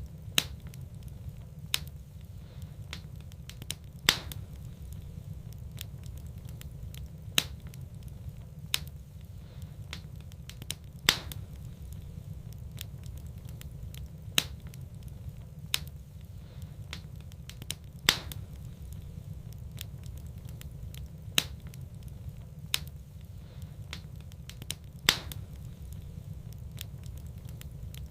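Wood fire burning in a fireplace: sharp crackling pops every one to three seconds over a steady low rumble.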